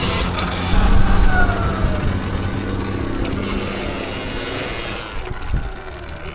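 Electric dirt bike being ridden on a dirt trail: wind rushing and rumbling over the microphone with tyre noise, and a thin electric-motor whine that falls in pitch as the bike slows, about a second in. A short thump comes near the end.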